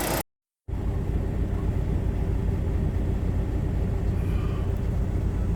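Steady low rumble of a car driving, engine and road noise heard from inside. The sound drops out completely for a moment just after the start, then the rumble carries on evenly.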